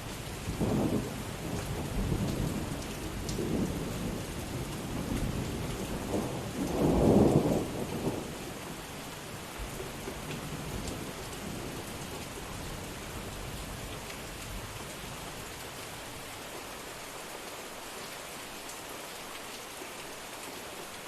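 Steady rain with a low rumble of thunder rolling through the first eight seconds, loudest about seven seconds in, then fading to rain alone.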